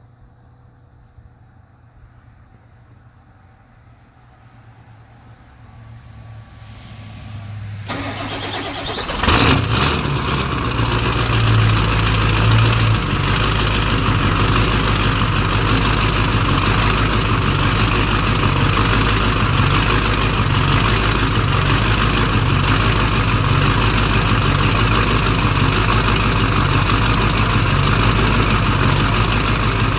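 Ford 7.3-litre Powerstroke V8 turbo-diesel cold-started at about 20°F: a low hum at first, then it cranks about eight seconds in and fires a second or so later. It settles into a loud, steady, pulsing idle.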